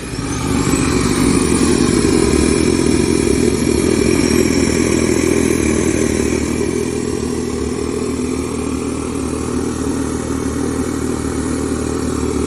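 Mitsubishi Electric Be-K compact paper-bag vacuum cleaner switching on: its motor whine rises quickly over the first couple of seconds, then runs loud and steady.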